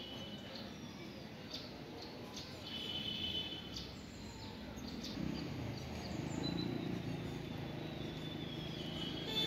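Small birds chirping now and then over outdoor background noise, with a short trill about three seconds in. A low steady rumble comes in about halfway through.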